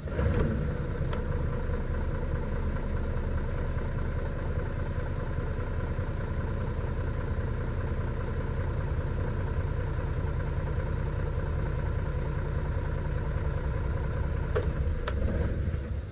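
2005 Isuzu FTR750 truck's diesel engine idling steadily, with a couple of light clicks near the end.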